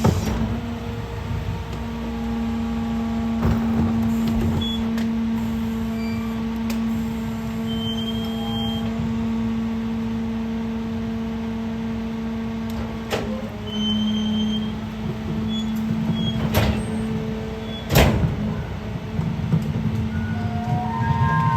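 Peterbilt 520 garbage truck with a Heil DuraPack 5000 rear-loader body working: a steady hydraulic and engine hum held for long stretches, broken by several metallic clanks, the loudest near the end.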